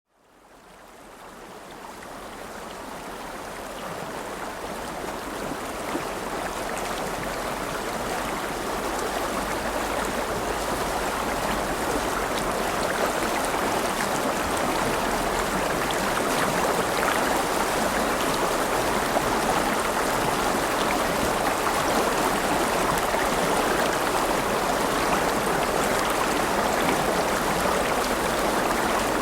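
River water flowing, a steady rushing that fades in from silence over the first several seconds.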